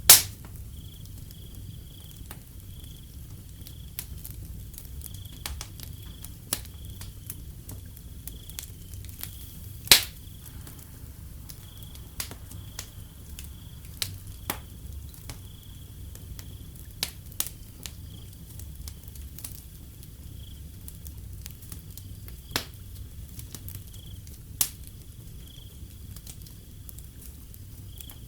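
Wood fire crackling, with scattered sharp pops, the loudest right at the start and about ten seconds in, over a low steady rumble. Crickets chirp in a faint repeating high trill behind it.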